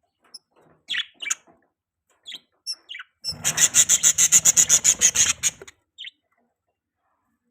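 Budgerigar chirping: a few short, high chirps, then a rapid run of sharp chirps, about ten a second, for some two seconds before it stops.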